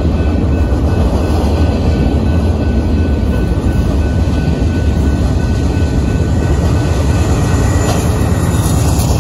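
BNSF freight train's loaded cars rolling steadily past a grade crossing, a loud, even low rumble of wheels on rail with a thin steady high tone over it. Near the end the train's locomotives come by.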